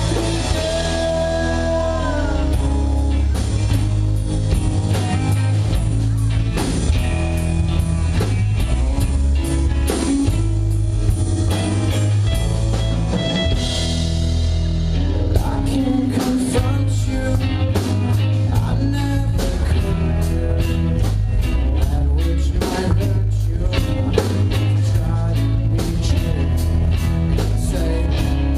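Live rock band playing: electric guitar, bass and drum kit, with singing. About halfway through, the drums switch to a busier beat with steady cymbal strokes.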